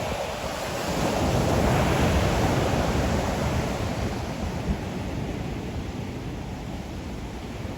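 Ocean waves breaking and washing on the shore, one swell rising about a second in and ebbing away, with some wind on the microphone.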